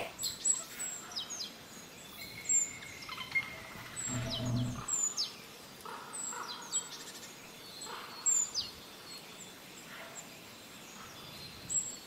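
Small birds chirping: short high calls that fall in pitch, repeated every second or so. A brief low rumble comes about four seconds in.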